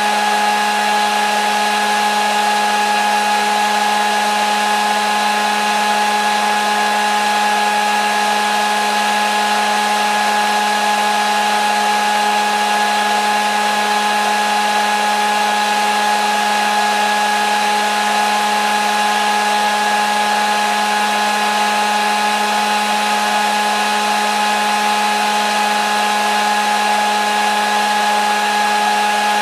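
Hair dryer running steadily: an even rush of air over the motor's constant hum and whine, with no change in speed.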